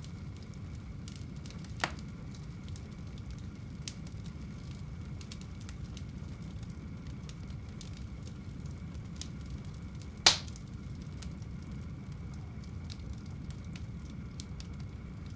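Wood fire burning in a home fireplace: a steady low rumble of flames with scattered faint crackles and two sharp pops, the louder one about ten seconds in.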